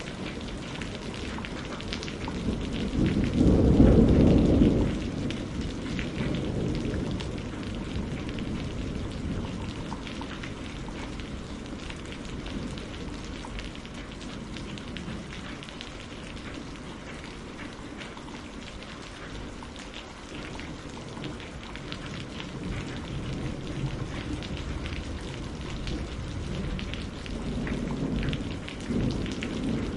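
Steady rain with a fine patter of drops. A roll of thunder rumbles a few seconds in, the loudest sound, and a weaker rumble of thunder builds near the end.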